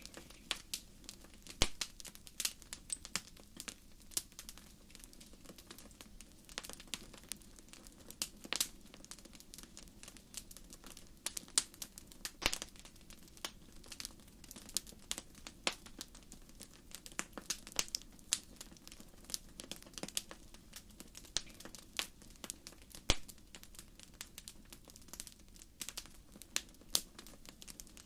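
Wood fire burning in a fireplace, with irregular sharp crackles and pops over a low, steady hiss of the flames.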